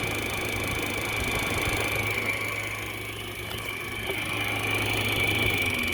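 Window air conditioner running: a steady low hum under a steady high whine and rushing noise from its fan, whose motor bearings are worn so the blower wheel runs off balance. The low hum cuts off near the end.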